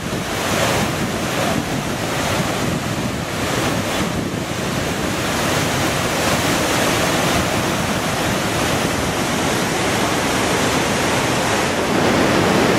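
Steady rushing of falling water, with wind buffeting the microphone.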